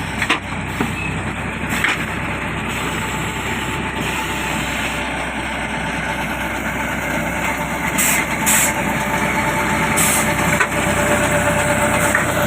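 Engine of a brick-making machine running steadily, with a few short hissing bursts near the end.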